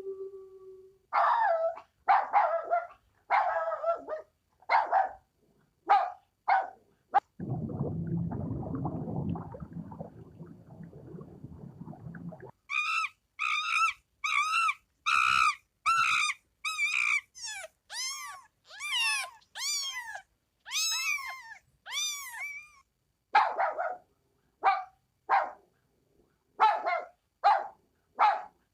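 Dogs barking in short runs, broken by a few seconds of low rough noise, then a run of high, rising-and-falling whimpers and yips, and short barks again near the end.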